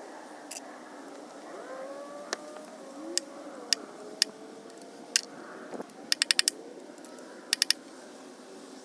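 Sharp metallic clicks and clinks of hand tools and parts during an engine teardown: single clicks spread over the first few seconds, then quick runs of about five and three clicks.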